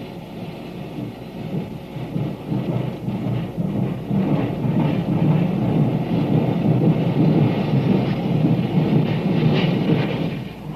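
Union Pacific Big Boy steam locomotive working hard, its exhaust a dense rumbling roar that grows louder about four seconds in, as its driving wheels slip on the rails.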